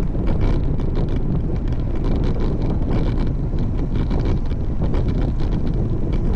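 Wind rushing steadily over the microphone of a camera riding on a road bike, a heavy low rumble with faint irregular ticks above it.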